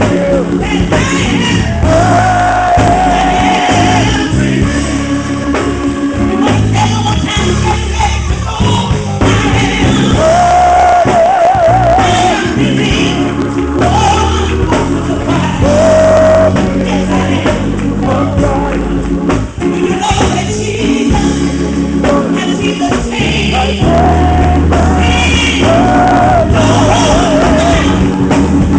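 Gospel music: a singer holds long notes with vibrato over a loud band accompaniment with heavy bass.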